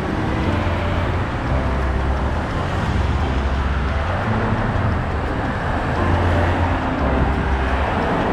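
Steady road traffic noise with a low rumble, from cars passing.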